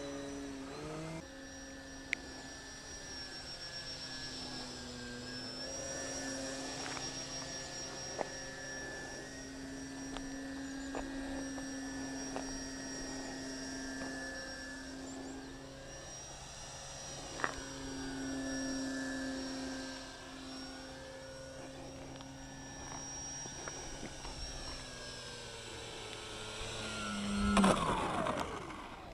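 A radio-controlled model biplane's motor and propeller whine steadily in flight, the pitch shifting a little now and then. Near the end the whine grows louder and falls in pitch as the plane passes close.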